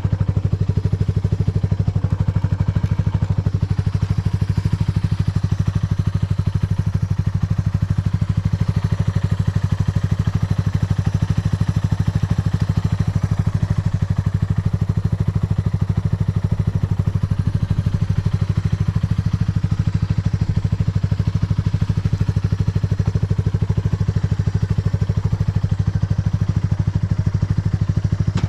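Yamaha TW200's air-cooled single-cylinder four-stroke engine idling steadily with an even, rapid exhaust beat. The seller presents it as running without abnormal noise.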